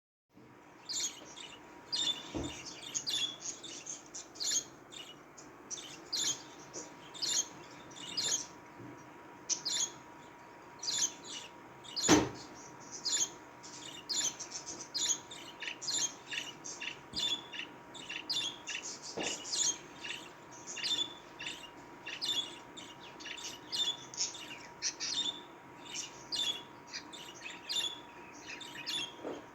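Budgerigars chirping and chattering: a dense run of quick, high chirps one after another, over a thin steady background tone. A sharp click about two seconds in and a louder one about twelve seconds in.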